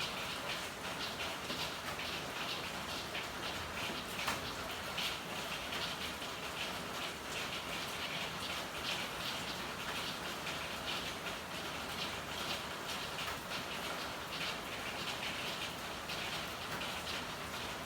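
Steady rain falling in an alley, a dense patter of drops with one sharper tap about four seconds in.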